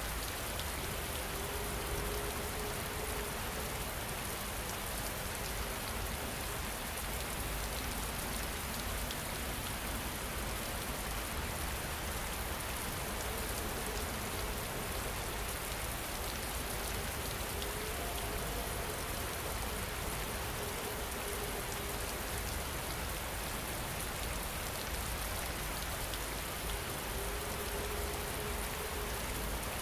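Steady rain falling, an even patter with no letup. A faint, soft held tone surfaces a few times underneath it.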